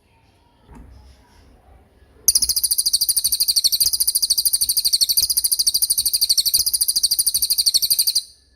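Songbird giving a very high, fast-pulsing trill for about six seconds, starting suddenly a couple of seconds in and cutting off near the end.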